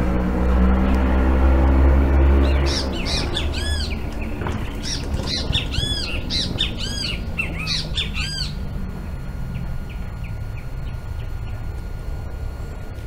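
A bird giving a rapid series of loud calls for about five seconds, each note rising and falling in pitch. Before the calls, a low rumble fades out two or three seconds in.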